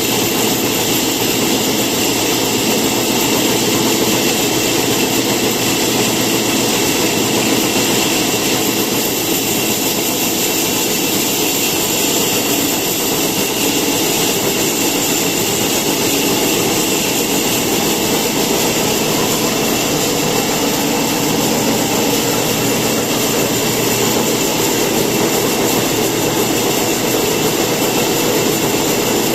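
A power woodworking machine's electric motor running steadily, a constant hum with a high whine and no change in speed.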